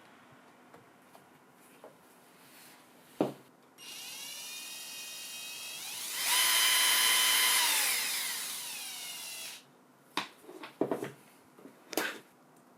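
Cordless drill motor running: a click, then the motor spins up with a whine, speeds up to full speed and gets louder for about two seconds, eases back and stops. A few clicks and knocks follow.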